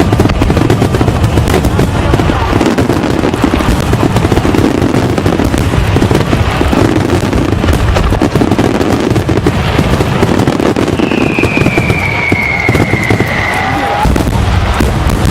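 Fireworks display: a dense, continuous crackling and banging of bursting shells, with a long falling whistle from about eleven seconds in.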